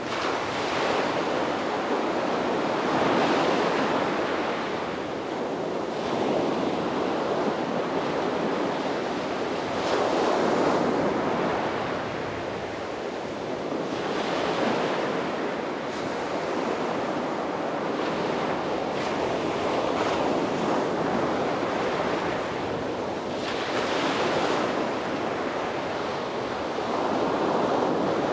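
Sea waves breaking and washing on a beach, the surf rising and falling in a slow rhythm every few seconds, with some wind on the microphone.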